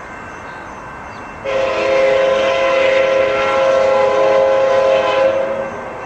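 Hybrid K5LA air horn on an Amtrak F59PHI diesel locomotive sounding one long chord blast of about four seconds, starting about a second and a half in, over the rumble of the approaching train.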